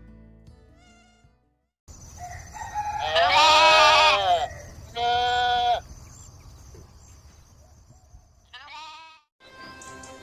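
Farm animal calling three times: a long, loud wavering call, a shorter steady call, then a brief call near the end, over a steady high hiss.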